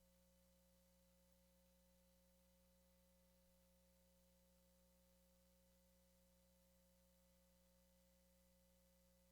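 Near silence with a faint, unchanging steady hum.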